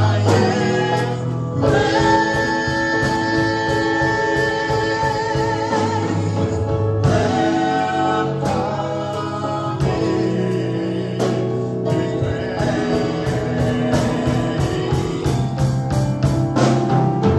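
Live gospel praise and worship music: a choir of singers holding long wavering notes over a band, with a bass line and a steady drum beat.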